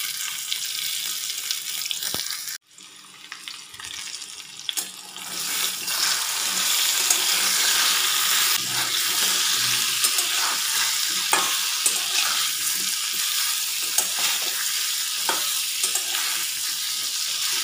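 Taro corms (mukhi kachu) sizzling in hot oil in a metal kadai, with a flat metal spatula scraping and clicking against the pan as they are turned. The sound cuts out abruptly about two and a half seconds in, and the sizzle is louder from about six seconds on.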